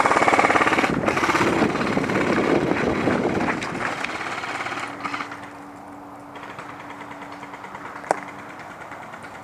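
Airsoft gun firing long full-auto bursts of covering fire, a rapid, even rattle that fades out about five seconds in. After it a faint steady hum remains, with a single sharp snap near the end.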